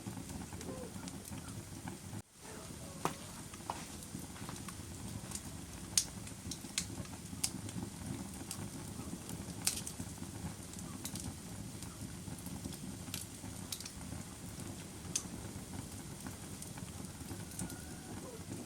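Bonfire crackling: a steady low rush of burning wood with sharp pops scattered irregularly throughout. The sound drops out for a moment about two seconds in.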